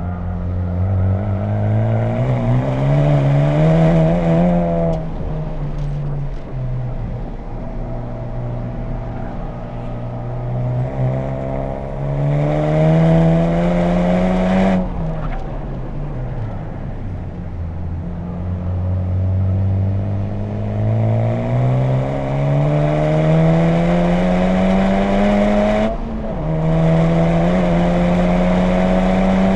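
2020 Honda Civic Type R FK8's turbocharged four-cylinder engine through an HKS Legamax Premium exhaust, driven hard on track. Its pitch climbs under acceleration and drops sharply at upshifts, about halfway through and again near the end, with a lift around five seconds in.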